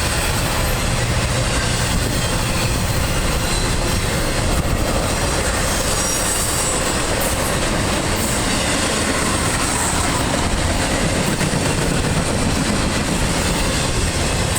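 Norfolk Southern double-stack container train rolling past close by: a steady, loud noise of steel wheels on the rails and the moving cars.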